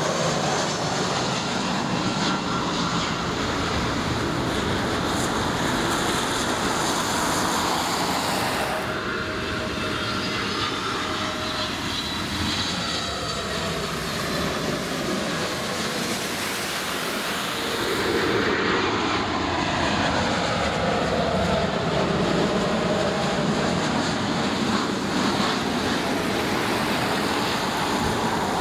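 Jet airliner engines, a steady rush with slowly sliding tones as the aircraft passes. The sound changes abruptly about nine and eighteen seconds in.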